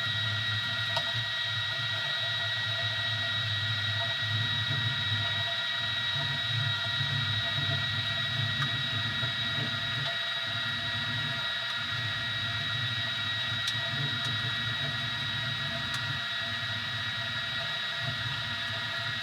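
Easythreed X2 3D printer running a print: a steady high whine over a lower motor hum that rises, falls and briefly drops out as the axes move.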